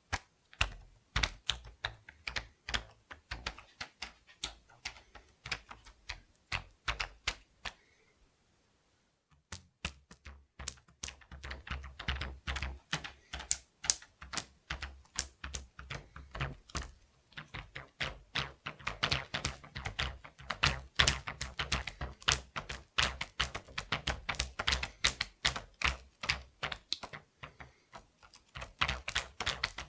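Rubber bands being plucked and snapped in quick succession, a fast run of sharp snapping clicks with low thuds. They pause briefly about eight seconds in, then carry on.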